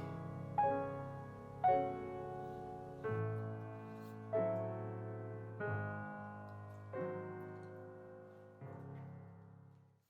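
Slow solo piano music: notes and chords struck roughly once every one to one and a half seconds, each ringing and fading, dying away at the end.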